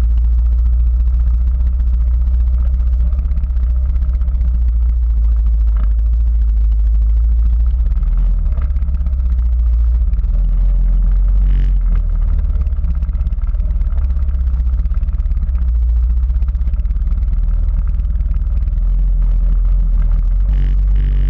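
Quad bike (ATV) engine running while riding off-road, a steady low rumble.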